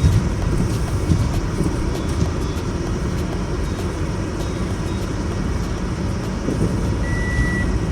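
A car driving slowly on a snow-covered road, heard from inside the cabin: a steady low rumble of engine and tyres. A short high beep sounds about seven seconds in.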